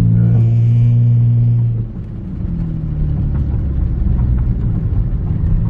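Car engine pulling hard under acceleration, then the revs drop off abruptly about two seconds in. It settles back into a lower, steadier drone.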